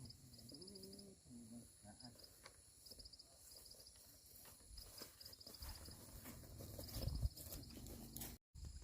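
Insects chirping in short repeated trills over a quiet rural background, with soft low thuds and scuffs that grow louder about seven seconds in.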